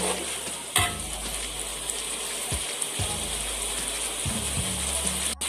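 Thick sardine sambal sizzling and bubbling in a wok as a metal spatula stirs it, scraping against the pan, with a sharp click about a second in.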